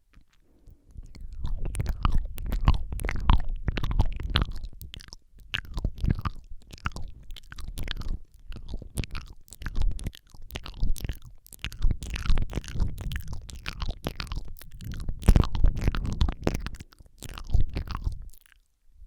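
Close-miked ASMR mouth sounds: a rapid run of lip and tongue clicks and smacks, with short breaks about 5 and 10 seconds in, stopping just before the end.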